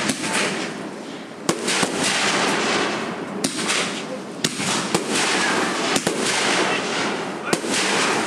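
Fireworks going off: a dense, continuous crackling, broken by sharp bangs about every second or so.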